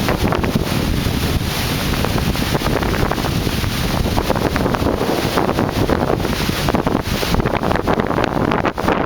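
Strong wind buffeting the camera microphone in a loud, continuous, gusty rush.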